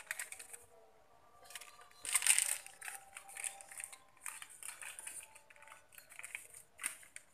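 Meat, spices and a little liquid sizzling and crackling in a wok, in uneven sputtering bursts.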